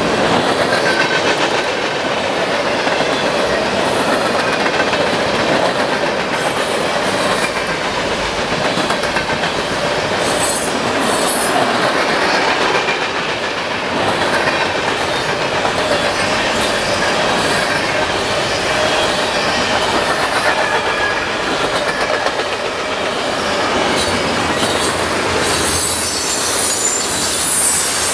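Freight cars of a CN mixed freight train, mostly tank cars, rolling steadily past at close range: the continuous rumble and clatter of steel wheels on rail, with clickety-clack at the rail joints.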